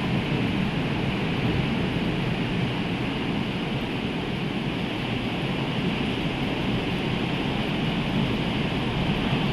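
Rough, storm-driven sea surf: a steady, unbroken rush of breaking waves.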